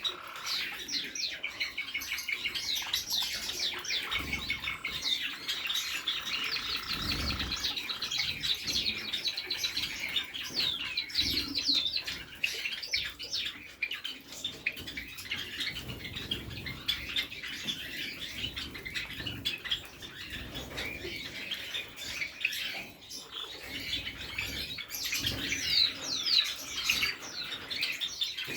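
A flock of small cage birds chirping and twittering without pause, a dense chatter of many short, high calls, lots of them quick falling notes.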